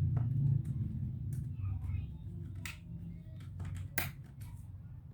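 Scattered light clicks and taps of small parts being handled during laptop disassembly, over a low hum that fades after about the first second.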